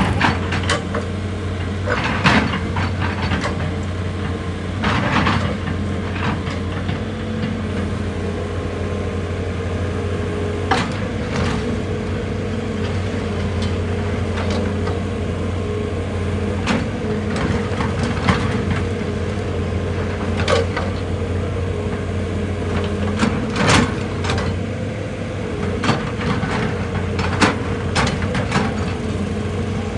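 Excavator's diesel engine running steadily under load, with irregular sharp clanks and knocks at intervals of a second or two.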